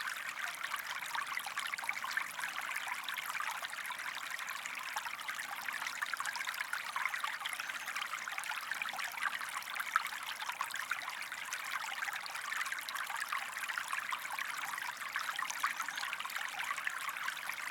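Recorded sound of flowing water, a steady trickling stream used as a background track.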